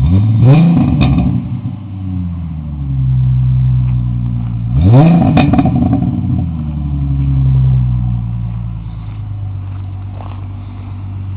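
Ford Mustang 4.0 L V6 through a 2¼-inch true dual exhaust with Imco mufflers and an X-pipe, revved twice from idle: once right at the start and again about five seconds in. Each rev climbs sharply and falls back to a steady idle, with a smaller swell of revs later on.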